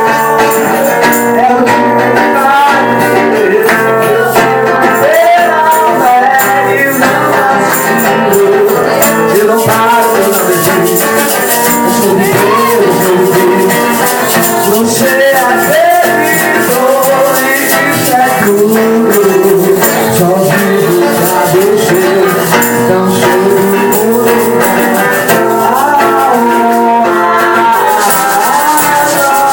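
Worship music played live: voices singing a melody over guitar, with a maraca-like shaker keeping a fast steady rhythm.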